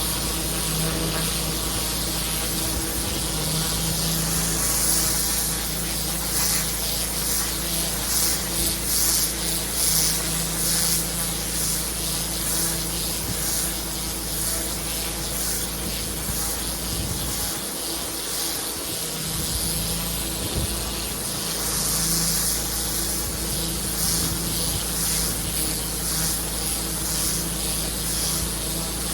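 Pressure washer running steadily, its engine humming under a loud high hiss of water jetting onto paving. The low hum dips briefly about eighteen seconds in.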